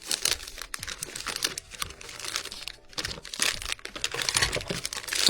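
Plastic cat-snack packets crinkling and rustling in irregular crackles as they are handled and packed away.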